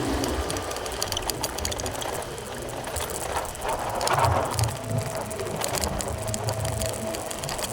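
Motorbike engine running under way, a low steady rumble under road and wind noise, swelling briefly about four seconds in.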